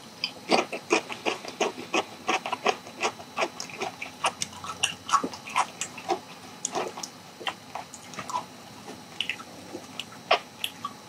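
Close-miked chewing of a large piece of sauced charcoal-grilled chicken: irregular mouth clicks and smacks, several a second.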